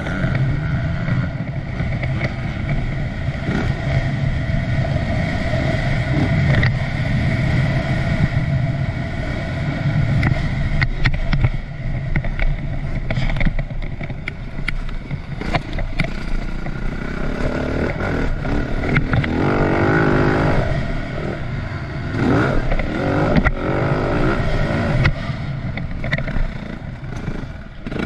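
2010 Yamaha YZ450F's single-cylinder four-stroke engine being ridden on a motocross track, the revs rising and falling with the throttle, busiest about 18 to 24 seconds in, with knocks and clatter from the bike over the dirt.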